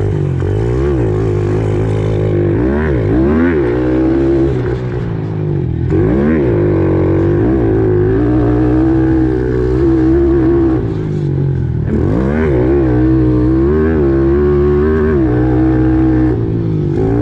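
Pit bike engine revving up and down over and over as it is ridden hard, its pitch rising and falling with the throttle and easing off briefly a few times.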